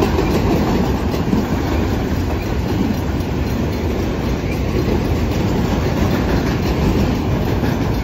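Freight train of multilevel autorack cars rolling past, with a steady, loud noise of steel wheels running on the rails.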